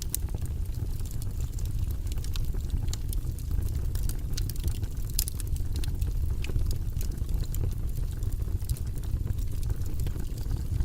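Wood fire in a fireplace crackling, with many small irregular pops over a steady low rumble of the flames.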